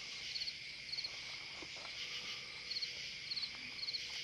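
Night insect chorus: a steady high-pitched hiss of many insects, with one insect's short pulsed chirps repeating about every half second.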